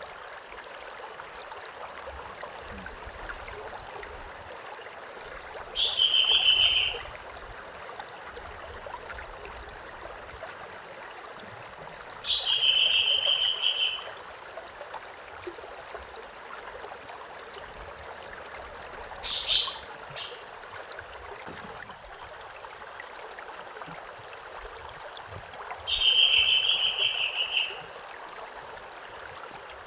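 A stream flowing steadily, with a bird repeating a loud, high call of about a second three times, roughly every six to seven seconds, and giving two very short sharp notes in between.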